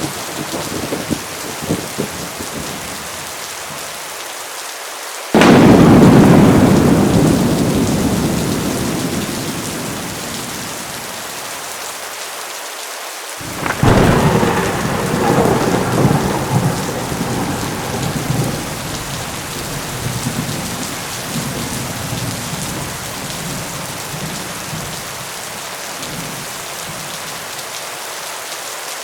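Heavy rain falling steadily, with two claps of thunder. The first is a sudden loud crack about five seconds in that rumbles away over several seconds; the second, about fourteen seconds in, rolls on in several peals.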